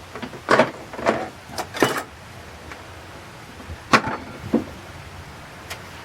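A series of hard metallic knocks and clatters, about six in all, loudest near the start and again about four seconds in: hand tools and bolted engine parts being handled and set down while parts are unbolted in the engine bay.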